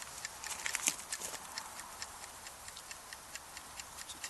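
Wood campfire crackling: irregular sharp pops and ticks over a faint steady hiss.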